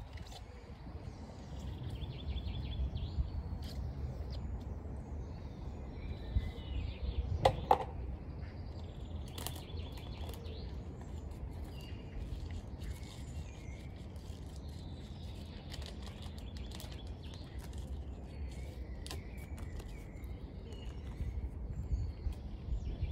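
Small birds chirping again and again over a steady low rumble, with a few sharp knocks; the loudest knock comes about seven and a half seconds in.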